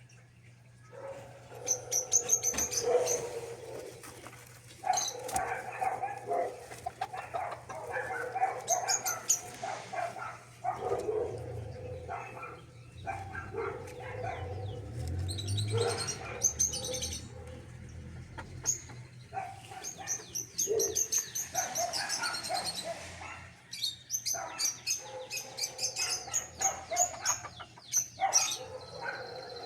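Small cage birds chirping and chattering in quick, warbling runs with brief pauses.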